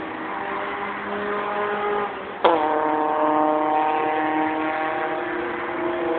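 Car engines revving. About two and a half seconds in, a louder engine sound cuts in sharply and holds at a steady high pitch.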